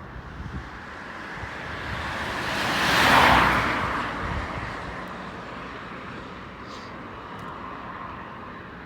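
A vehicle passing close by: its noise swells to a peak about three seconds in and fades away over the next two seconds.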